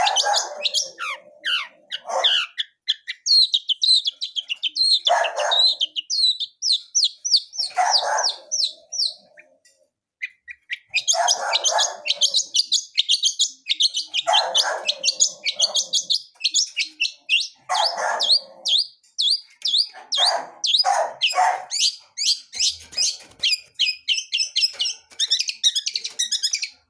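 Long-tailed shrike (cendet) singing a fast, varied twittering song full of mimicked phrases. Short, lower, harsher notes break in every few seconds, and the song pauses briefly about ten seconds in.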